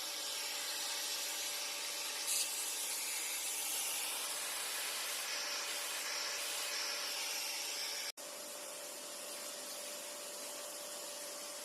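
Vacuum cleaner running steadily with a micro detailing kit attachment on the end, a constant hiss of suction. About eight seconds in the sound cuts out for an instant and comes back slightly quieter, with a steady hum.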